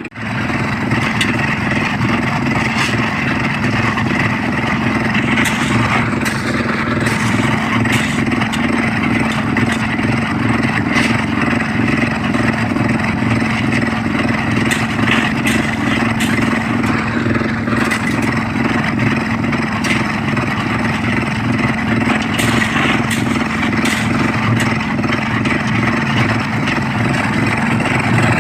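Small concrete mixer machine running steadily under load, with occasional clatter and scraping knocks on top.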